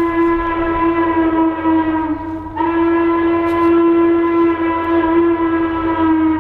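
Locomotive steam whistle sounding two long blasts on one steady pitch, with a short break between them.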